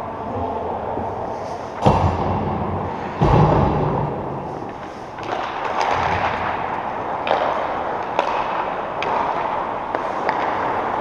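Arena game noise: a steady hubbub of play with two loud thuds about two and three seconds in, followed by several lighter sharp knocks.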